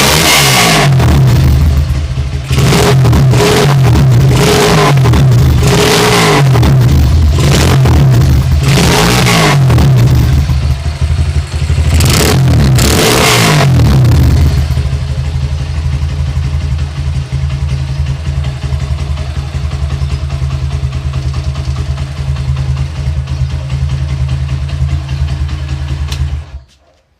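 Honda CB100's single-cylinder four-stroke engine, freshly rebuilt, blipped repeatedly for about the first half, then settling to a steady idle before cutting off suddenly near the end. It runs normally, its compression restored.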